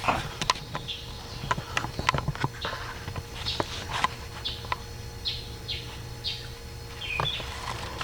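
Light clicks and taps of metal and plastic parts being handled inside a car door during window regulator work, with short bird chirps in the background from about the middle on.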